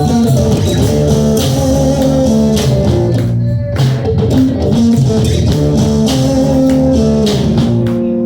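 A band playing an instrumental passage, with long held notes over a bass line.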